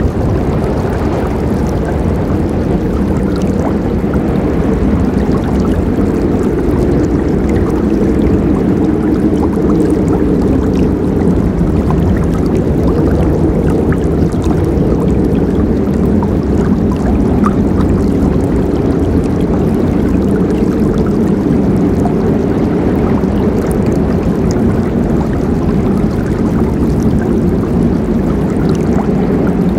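Forest river flowing: a loud, steady rush of water, deepest and strongest in the low range, with small splashes and drips ticking over it.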